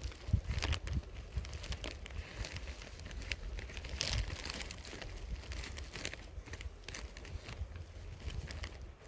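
Irregular crinkling with scattered small clicks and ticks over a steady low rumble, like something being handled or crumpled.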